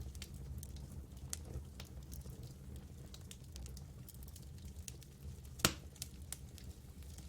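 Campfire crackling: scattered sharp pops and ticks from the burning wood, with one louder snap about five and a half seconds in, over a low steady rumble.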